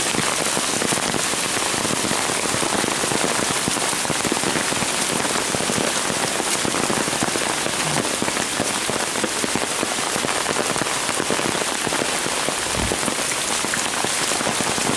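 Steady, heavy rain falling in a severe thunderstorm, an even hiss of drops that keeps the same level throughout, with one brief low bump near the end.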